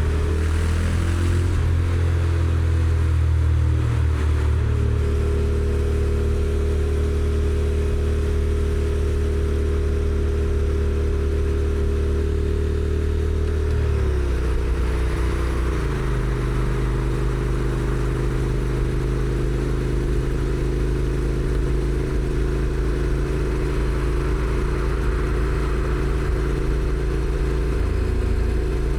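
Honda NC750X's parallel-twin engine on the stock exhaust running steadily under way, with wind and road noise. The engine note steps down in pitch twice around the middle and then holds steady.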